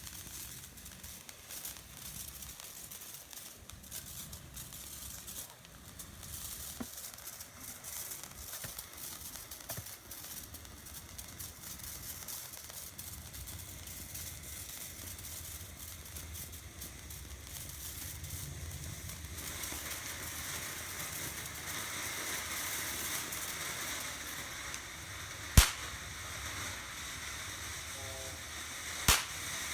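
Phantom Fireworks Grucci Brooklyn Bridge Show firework fountain burning, a low-noise fountain: a steady spraying hiss with fine crackle that grows louder and brighter about twenty seconds in. Two sharp bangs come near the end.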